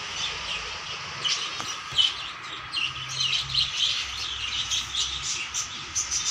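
Small birds chirping, a busy run of quick high chirps, many overlapping, with no pause.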